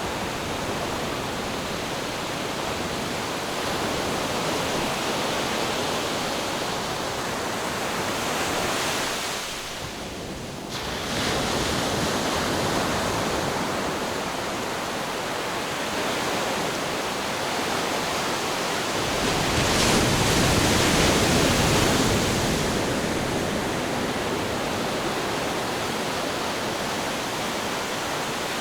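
Ocean surf: a steady rush of waves breaking and washing in, easing briefly about ten seconds in, then swelling with a bigger wave about twenty seconds in.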